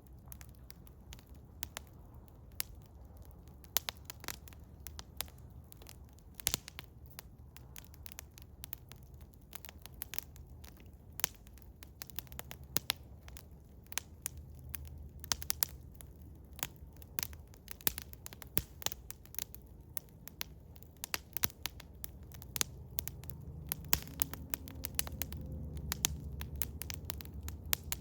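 Eastern hemlock wood fire crackling, with frequent irregular sharp pops. Beneath them is a steady low rumble that grows louder near the end.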